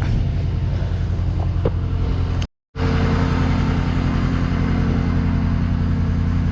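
Truck engine idling steadily with a deep, even hum, with a few faint clicks in the first couple of seconds. The hum is broken by a brief dead silence about two and a half seconds in.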